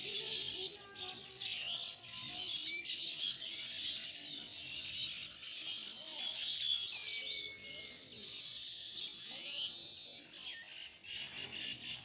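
Baya weaver birds chattering, many quick high chirps and short whistled glides overlapping, over background music.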